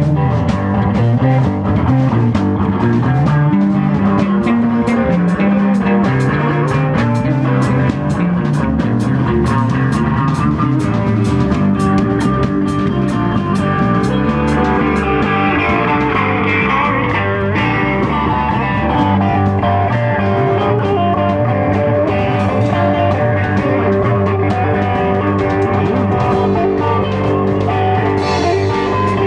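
Live rock band playing an instrumental passage: guitar over bass and a drum kit, with even cymbal strokes that thin out about halfway through.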